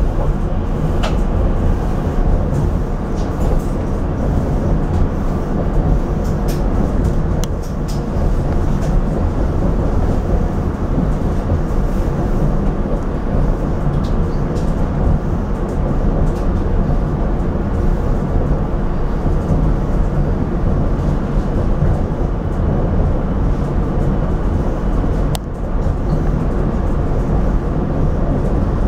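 Rotem Silverliner V electric commuter rail car running on the rails, heard from inside the car: a loud, steady rumble with a few sharp clicks, the strongest near the end.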